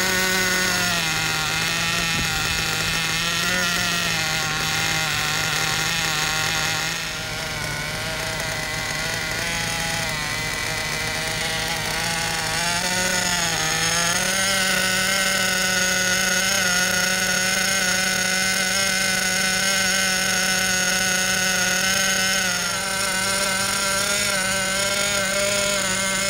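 Werks B5 .21 two-stroke nitro RC engine running steadily on its first break-in tank, its pitch wavering slightly and stepping up a little about halfway through.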